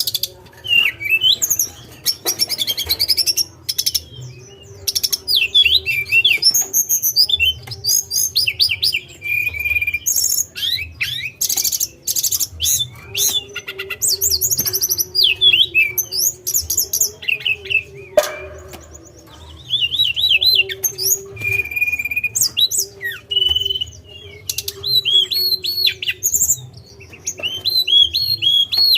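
Tledekan, an Indonesian songbird, singing continuously: a rapid, varied run of high chirps, trills and whistled notes in short bursts, with brief pauses. A faint steady low hum sits underneath.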